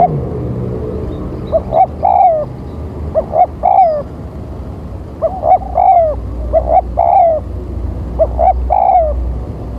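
Spotted dove (tekukur) cooing: about five repeated phrases, each two short notes and then a longer, falling coo, over a low steady rumble.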